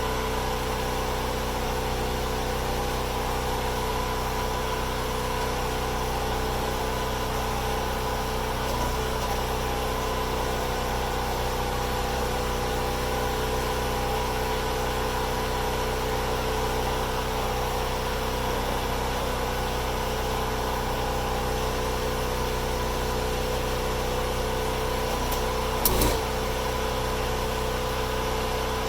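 An engine running steadily at an even, unchanging speed, with one brief knock about 26 seconds in.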